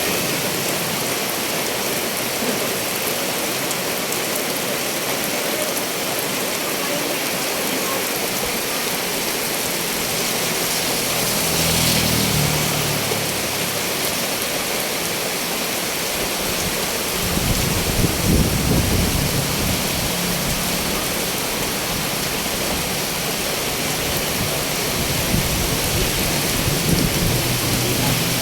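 Heavy rain falling, a loud, steady hiss, with low rumbles about twelve seconds in and again from a little past the middle.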